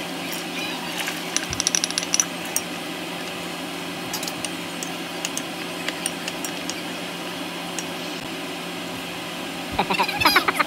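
Butter and minced garlic sizzling in a stainless steel pan, with scattered knocks of a wooden spoon against the pan as it is stirred. Near the end there is a quick run of taps as seasoning is poured in from a small cup.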